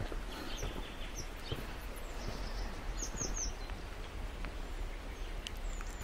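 Songbirds chirping in short, high notes, with a quick run of three chirps about three seconds in, over a steady low outdoor rumble.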